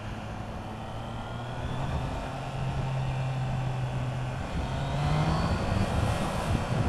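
Triumph Trident 660's three-cylinder engine pulling in second gear under way, steady in pitch and getting louder about two seconds in.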